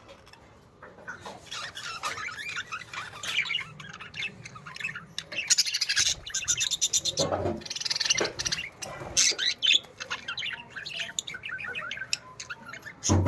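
Several budgerigars chattering: dense, overlapping chirps, warbles and squawks, busiest in the middle, with a sharp knock right at the end.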